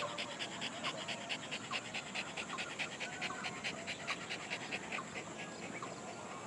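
Dog panting fast and evenly, about five breaths a second.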